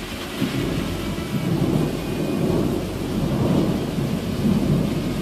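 Thunder rolling and rumbling in several swells, with steady rain hissing underneath.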